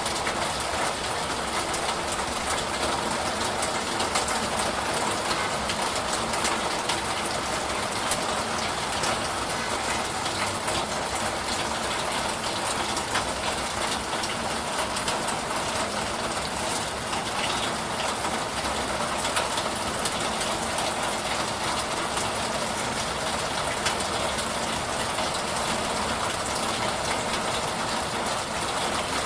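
Steady rain: an even hiss of rainfall with many small drop ticks scattered through it.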